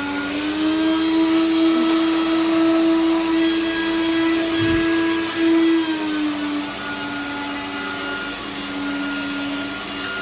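Hoover Turbopower upright vacuum cleaner running, a steady motor whine that rises in pitch about half a second in and drops back around six seconds, with a single thump near the middle.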